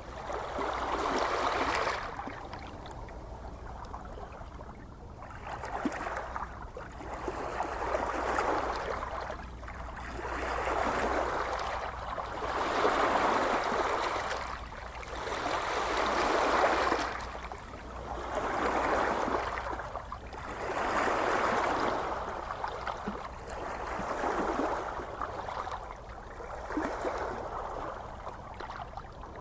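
Gentle ocean waves washing ashore, each soft rush swelling and fading about every two to three seconds over a steady low rumble.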